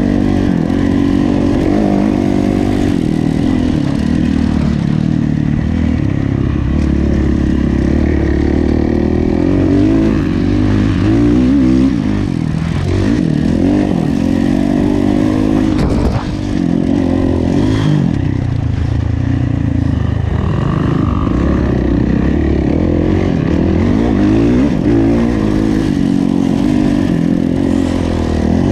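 Kawasaki KX450F single-cylinder four-stroke motocross engine under hard riding, its revs rising and falling again and again as the rider accelerates, shifts and backs off, with a brief drop in revs about midway.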